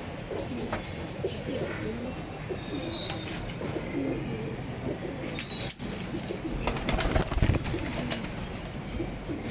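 Saharanpuri pigeons cooing over and over in low rolling calls, with bursts of wing flapping about halfway through and again a little later.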